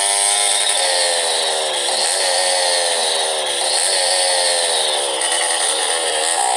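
Motorcycle's single-cylinder engine running while riding, its pitch rising and falling every second or two with the throttle, over a steady hiss of noise.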